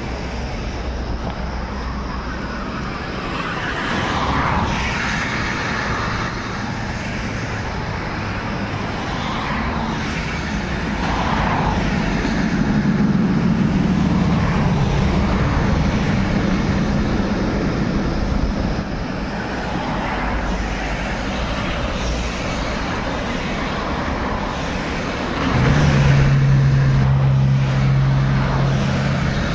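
Steady traffic noise with vehicles passing, swelling and easing a few times. A louder, steady low engine hum sets in abruptly about 25 seconds in.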